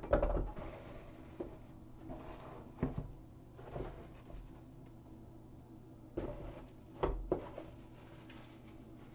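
Faucet parts and their packaging being handled: soft rustling and scraping, with sharp knocks right at the start, about three seconds in and about seven seconds in.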